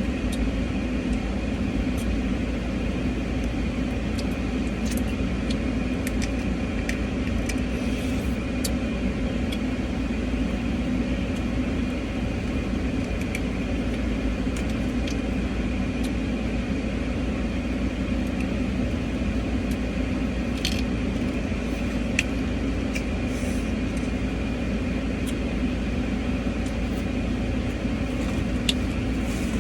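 Steady low hum inside a car's cabin with the engine idling, and scattered small clicks and cracks of king crab shell being broken open and eaten.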